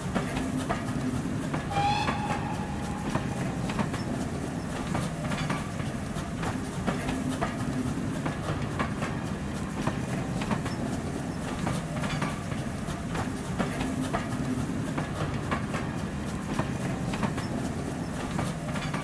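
A train running along the track, its wheels clicking rhythmically over rail joints, with a brief high whistle about two seconds in.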